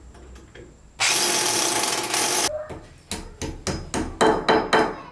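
A loud, even rushing noise for about a second and a half, then a run of about nine hammer blows that quicken toward the end, with a slight metallic ring.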